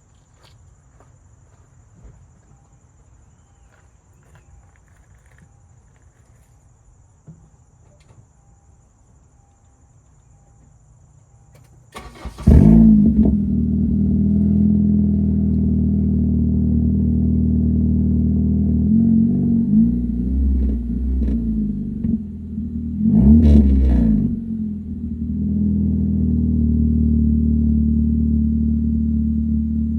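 2013 Honda Civic Si's 2.4-litre four-cylinder engine starting about twelve seconds in with its catback exhaust removed, then running loud and steady through the open exhaust. The throttle is blipped once briefly partway through.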